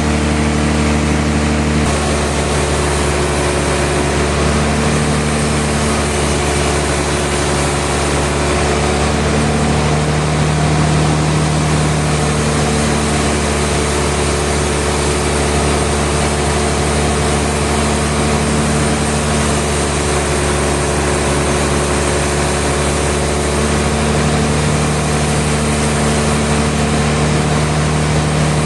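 Sawmill machinery running steadily: a constant low engine-like hum with a wide noise layered over it, unchanging throughout.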